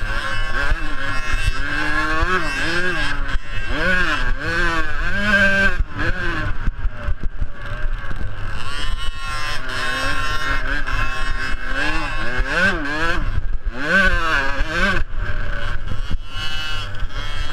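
Small two-stroke youth motocross bikes racing, their engines revving up and down again and again as the riders go through the gears and the corners, with several engines heard at once.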